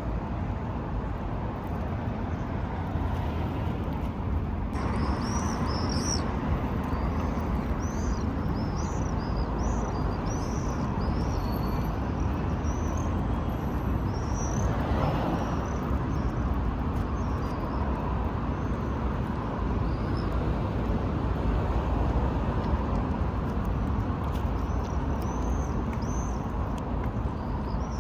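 Steady rumble of road traffic, with small birds chirping in quick repeated notes from about five seconds in until about thirteen seconds, and again near the end.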